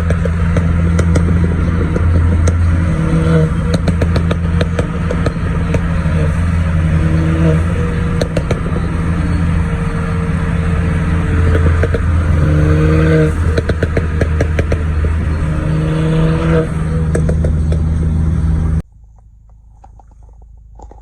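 Car engine and exhaust running steadily under way, with a strong low drone, a shifting whine and frequent light rattles. It cuts off abruptly near the end.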